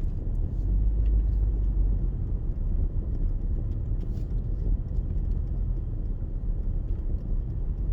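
Steady low road rumble inside a moving car's cabin: engine and tyre noise while driving.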